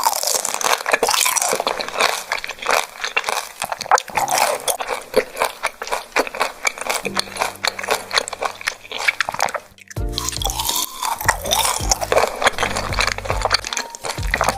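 Close-miked wet chewing and squishing of beef large intestines: dense, irregular sticky clicks and smacks over soft background music. A short break comes about ten seconds in, after which the music's bass is louder.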